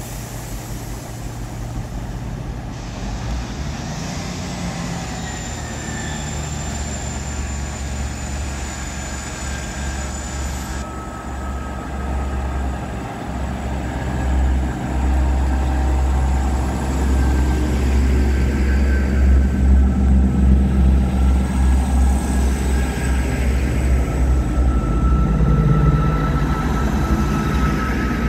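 A train at a railway station, its running sound with steady whining tones growing louder from about halfway through, over a strong low rumble.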